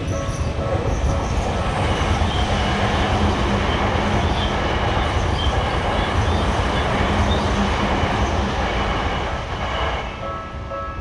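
A train passes a Japanese railway level crossing, a loud rushing rumble of wheels on rail for about ten seconds that fades near the end. As it fades, the crossing's electronic alarm bell rings again in steady repeating tones.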